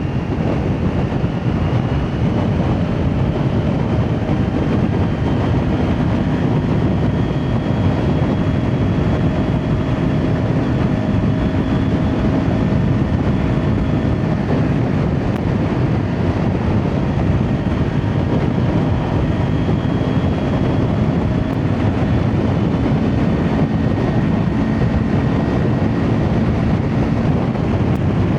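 Kawasaki Ninja 400 parallel-twin engine through an Akrapovic exhaust, running steadily while riding, its pitch drifting slowly up and down, with heavy wind rush over the microphone.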